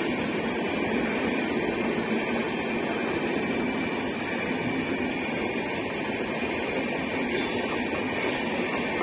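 Red-and-grey Indian Railways LHB passenger coaches rolling slowly past, giving a steady rumble and hum with no distinct wheel clatter.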